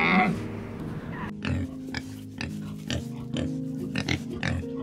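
Wild boar grunting, with short grunts about two a second starting about a second in.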